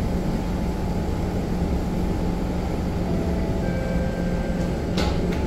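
Steady low hum and rumble of a C651 metro train standing at a station with its doors open, with a sharp click about five seconds in.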